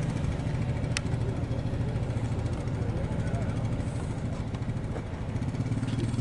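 SUV engine running at low speed while driving over off-road terrain: a steady low hum, with a sharp click about a second in.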